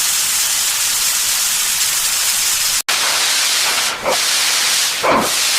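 Loud steady hiss that cuts out for an instant about three seconds in, then carries on with a brief falling swish near the end.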